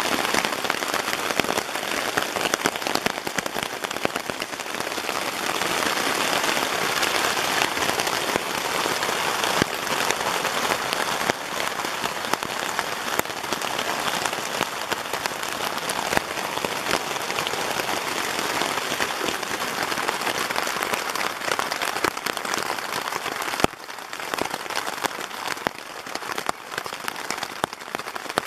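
Steady rain pattering on tent fabric, heard from inside the tent as a dense hiss of countless drop impacts. It drops a little quieter near the end.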